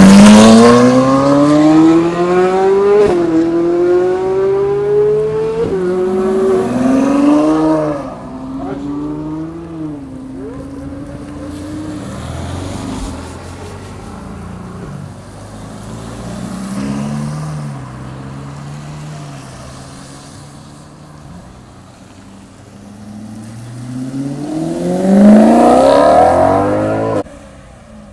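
Supercar engines accelerating hard away: the pitch climbs steeply and drops back several times as the car upshifts, then fades. Near the end another car revs up hard to a peak and the sound cuts off abruptly.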